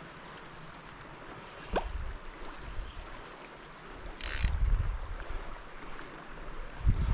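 Steady high-pitched insect chirring from the streamside vegetation, with low thumps and rumbles about two seconds in, around four to five seconds in and near the end, and a brief hiss about four seconds in.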